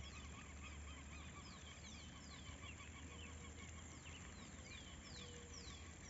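Faint bird calls: repeated short, high descending whistles, several a second, over a low steady hum.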